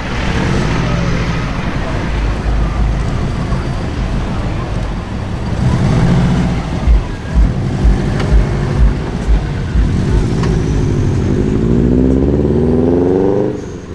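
Modified car engine and exhaust pulling away. It gives a quick run of about eight short loud throttle blips, then accelerates with a rising pitch that cuts off suddenly near the end.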